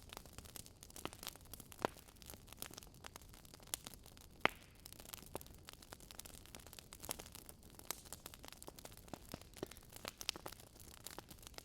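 Wood fire crackling in a fireplace: a steady stream of small pops and snaps over a faint hiss, with two sharper pops about two and four and a half seconds in.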